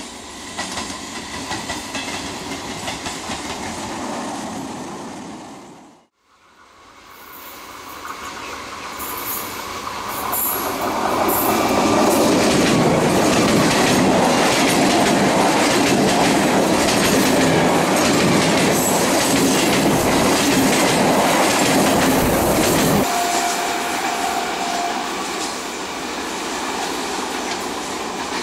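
Eastern Railway electric multiple unit (EMU) local trains running on the rails: a steady rumble with wheels clicking over rail joints. It drops out briefly about six seconds in, then builds to its loudest as a train passes close by, and falls back near the end.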